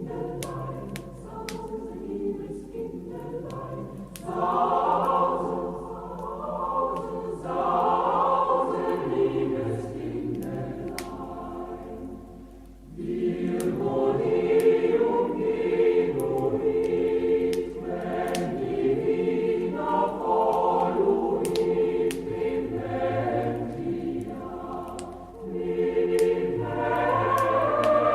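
Choir singing a Christmas song in phrases that swell and fall back, with a wood fire crackling in sharp clicks throughout.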